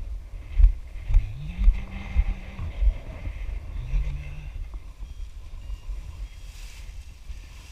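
Gusty wind buffeting the microphone in flight, a deep uneven rumble with several sharp gust peaks in the first three seconds. A low steady tone comes and goes over it, gliding up in pitch about a second in and sounding again briefly near four seconds.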